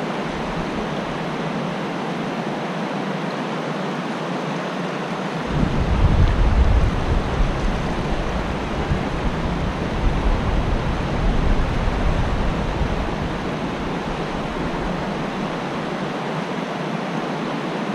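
Steady rush of fast creek water running over rocks. About five seconds in, a low rumble joins it for several seconds, then fades.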